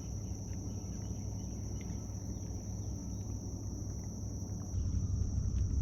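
Insects giving a steady high-pitched trill in marshland at dawn, with a few faint bird chirps over a low rumble that grows louder near the end.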